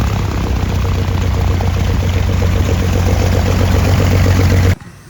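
Twin piston engines of a de Havilland Dragon Rapide biplane running steadily, with a low drone and a fast, even pulsing. The sound stops abruptly near the end.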